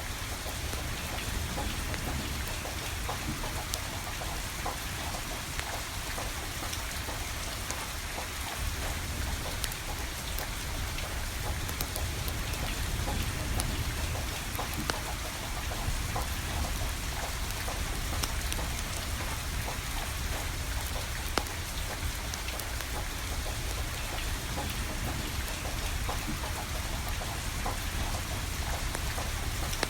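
Steady rain falling, with a wood fire crackling and popping in sharp scattered ticks over a low, even rumble.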